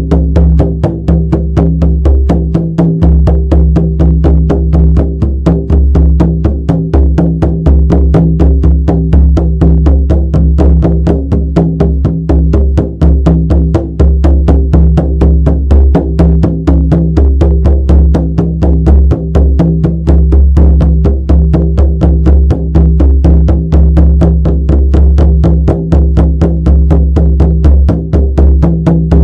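Shamanic frame drum beaten in a steady, even rhythm of about four strokes a second, the monotonous drumming used for trance and meditation. A deep, steady hum with a few held low tones sits underneath.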